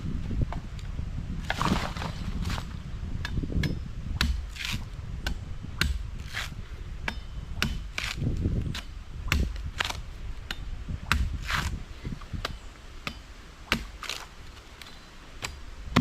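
Machete blows chopping, a run of sharp irregular knocks about one to three a second, some with a brief rustling scrape after them, over a low rumble.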